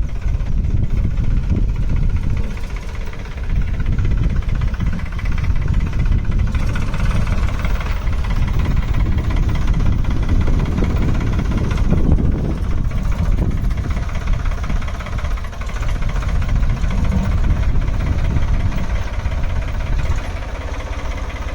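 Tractor engine running steadily as the tractor drives along, with a heavy low rumble.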